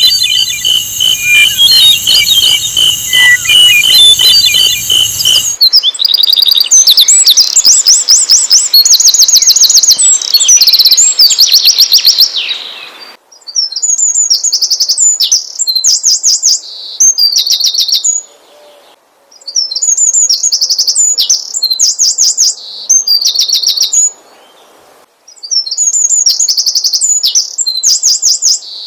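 Sikatan londo flycatcher song: rapid, high trilled phrases of a second or two each, repeated with short pauses. The first few seconds instead carry a steady high buzzy tone over a low hum.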